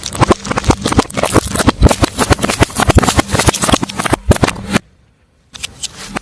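Car tyre rolling over and crushing something crunchy: a dense run of sharp cracks and crunches, with a low engine hum beneath. The crunching stops nearly five seconds in, then starts again briefly near the end.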